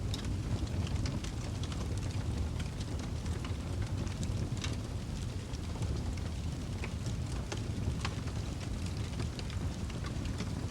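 Wood fire in a fireplace burning: a steady low rumble of flames with irregular sharp crackles and pops scattered throughout.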